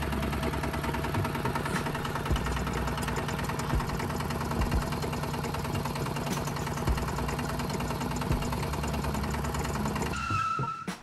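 Small motor of a home-built miniature tractor running steadily with a fast, even rattle, cutting off about ten seconds in.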